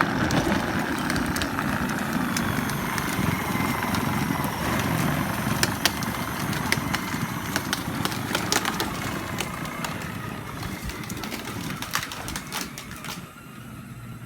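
Power Wheels Jeep Hurricane ride-on toy driving, its 12-volt electric gearbox motors whirring and its plastic wheels rolling over the ground with scattered clicks and knocks. The sound gets quieter near the end.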